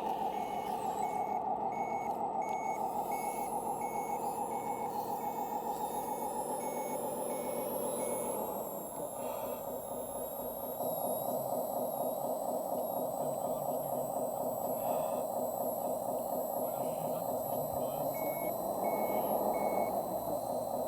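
Loudspeaker sound module of an RC scale model truck or machine, playing a simulated diesel engine with a reversing beeper. The engine runs steadily while the beeper sounds about three times every two seconds for the first eight seconds. The engine then drops back, comes up louder again a couple of seconds later, and a few more beeps come near the end.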